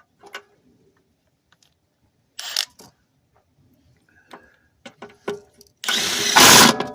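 A power tool spinning a socket to tighten a bolt: a short burst about two and a half seconds in, then a louder burst of about a second near the end. Light clicks and knocks of tools and parts come before it.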